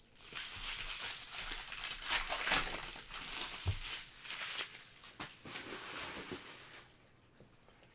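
Foil wrappers of trading card packs crinkling and tearing as they are opened by hand, with cards rustling and one dull thump a little before halfway. The rustling dies down about seven seconds in.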